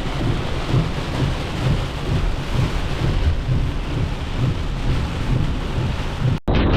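Heavy rainstorm: dense rushing rain with a pulsing low rumble throughout. It cuts off abruptly near the end and gives way to a duller rushing of rain and wind.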